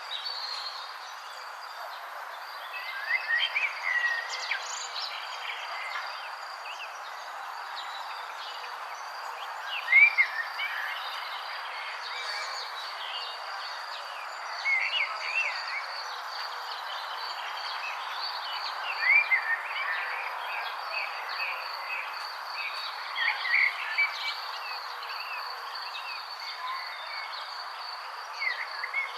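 Songbirds singing in an outdoor ambience, one bird repeating a short chirped phrase every four or five seconds. Under it run a steady hiss of background noise and a thin, high steady tone.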